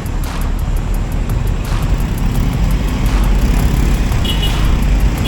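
Wind and road noise on a moving Honda Beat scooter: a steady, heavy low rumble of wind buffeting the microphone. A brief high-pitched tone comes in about four seconds in.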